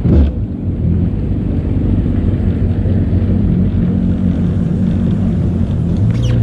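Jet ski engine running steadily, a low drone with a little haze above it.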